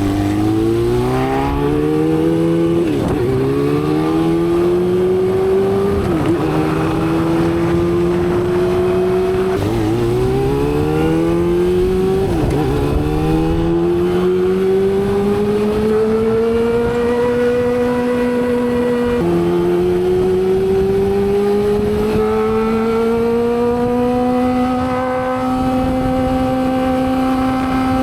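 Honda CB400 Super Four's inline-four engine through a Yoshimura exhaust, accelerating through the gears: the engine note climbs and drops sharply at each upshift, about five times, with the pulls in the higher gears getting longer and slower.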